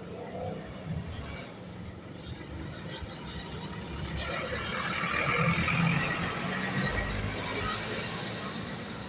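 Bus driving past, its engine and tyre noise growing louder to a peak about two-thirds of the way through, then fading.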